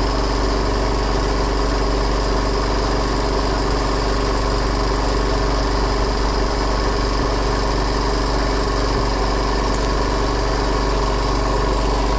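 Boat engine running steadily at an even, unchanging speed.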